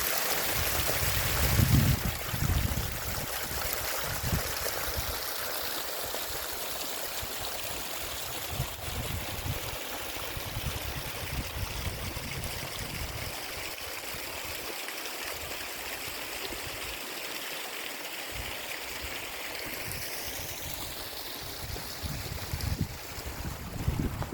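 Steady rush of a mountain stream, with wind buffeting the microphone in low thumps, strongest near the start.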